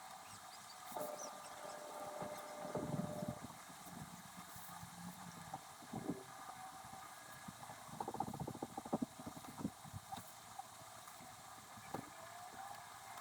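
Handwriting on paper: a pen scratching and tapping in quick irregular clicks and scrapes, with a dense cluster of rapid clicks about eight seconds in.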